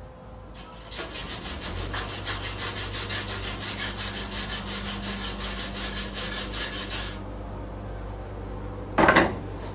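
Welding arc on truck floor sheet metal: a crackling hiss of about six seconds that pulses evenly a few times a second as the bead is run. It stops, and then a short tack-weld burst follows near the end, over a low steady hum.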